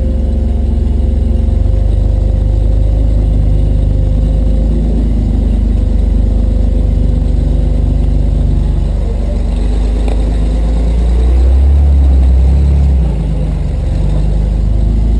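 Off-road vehicle engine running at low revs while crawling over rock, steady, with a brief rise in throttle about twelve seconds in before it eases off again.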